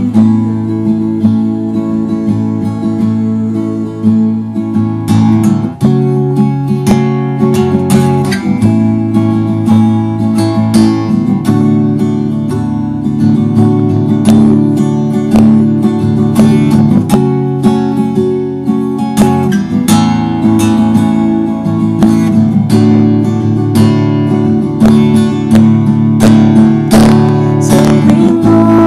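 Music: an acoustic guitar strummed in a steady run of chords.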